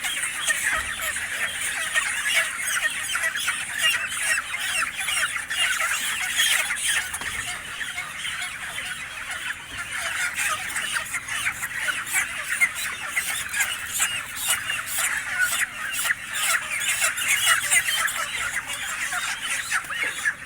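A large flock of broiler chickens squawking and clucking all at once in a dense, unbroken chorus of many short overlapping calls, with quick clicks and rustling mixed in, as the crowded birds are handled during unloading from a truck.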